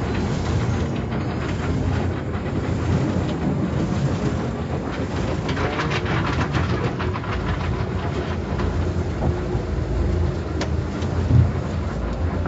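Car wash machinery running: a steady, loud rumble with continuous clattering.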